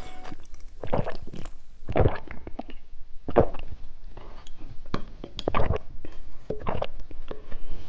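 Close-up eating sounds: bites and chewing of candy or snacks in short, irregular bursts, roughly one or two a second.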